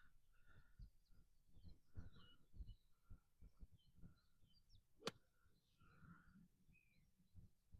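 Quiet outdoor ambience with faint birds chirping, scattered short calls throughout, and a single sharp click about five seconds in.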